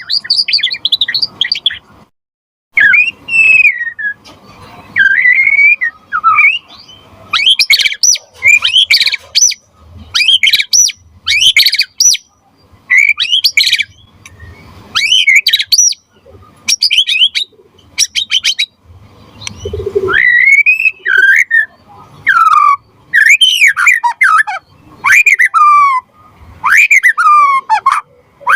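White-rumped shama (murai batu) singing loudly and continuously. Its song is a run of short varied phrases: fast high trills alternate with clear whistled notes that slide down, with brief pauses between phrases.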